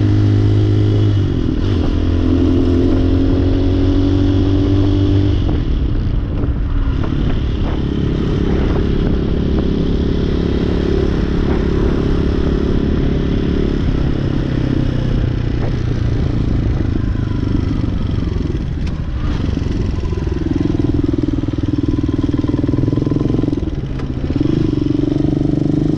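Hawk 250 dual-sport motorcycle's single-cylinder engine running steadily while riding, its pitch stepping up or down a few times, with road and wind noise under it.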